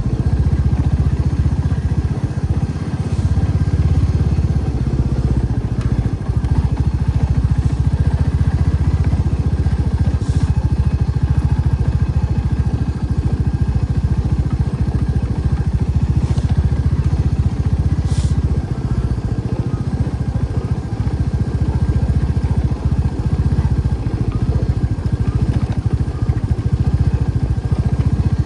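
Motorcycle engine running steadily as a low, continuous rumble, with a few faint clicks scattered through it.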